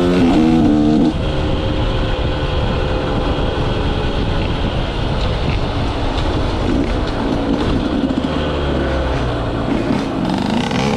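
KTM 125 SX two-stroke motocross engine with an FMF exhaust, running with the throttle being worked. Its pitch rises and falls at the start and again near the end, with a rougher, steadier stretch between.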